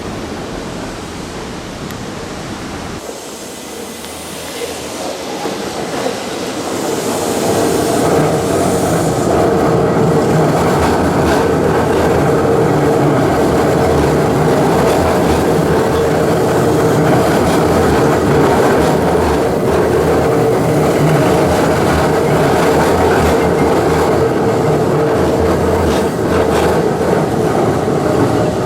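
Keihan Keishin Line train running on the rails. It grows louder over the first several seconds as it picks up speed, then holds a steady running noise with a constant hum and wheel clicks over the rail joints.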